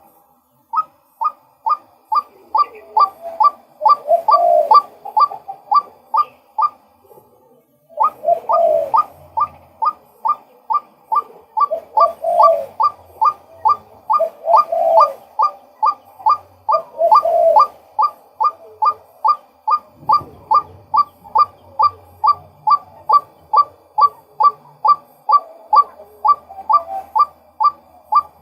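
Male white-breasted waterhen calling: a long run of sharp, evenly repeated notes about two a second, with a lower call overlapping at times. The calling breaks off for about a second some seven seconds in, then resumes.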